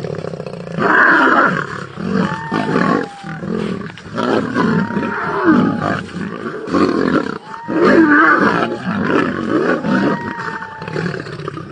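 Lions snarling and growling in repeated rough, loud bursts, as in a fight between lions.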